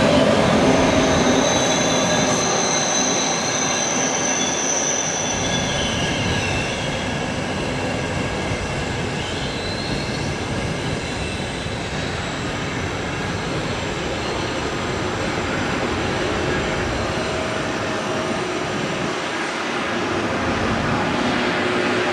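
Train rolling through the station, its wheels squealing on the rails: high, held squeals that bend in pitch during the first several seconds over a steady rumble.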